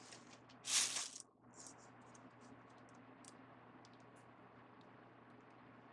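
Craft supplies being handled: one short, loud rustle a little under a second in, then light scattered clicks and taps over a steady low hum.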